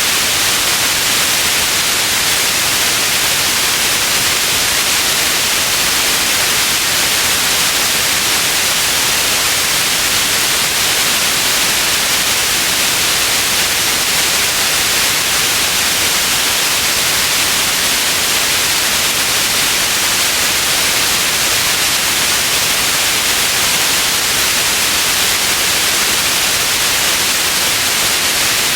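Synthetic white noise: a steady, even hiss, strongest in the high frequencies, with no change in level.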